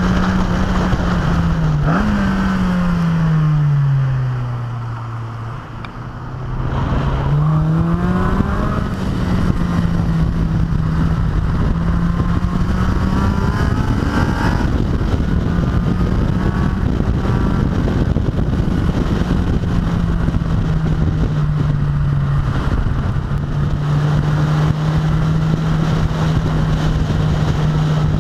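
A sports car's engine running hard at speed, with rushing wind over an outside-mounted camera. A few seconds in the revs drop as the driver lifts off, then climb back as it accelerates again, and the engine holds a steady note for the rest.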